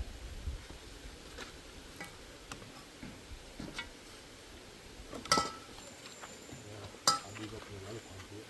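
Metal cooking utensils clinking and scraping against pots, with two sharp clanks about five and seven seconds in.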